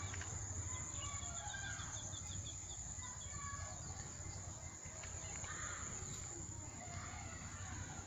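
Birds chirping and calling, with a quick run of chirps about a second in, over a steady high drone and a low rumble.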